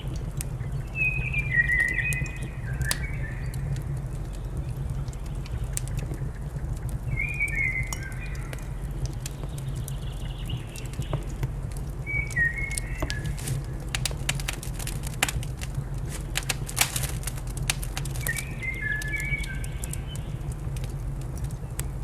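A songbird singing short phrases of quick, falling whistled notes, four times with pauses between, over a fire crackling in a fireplace with a steady low rumble. The fire's pops cluster about two-thirds of the way in.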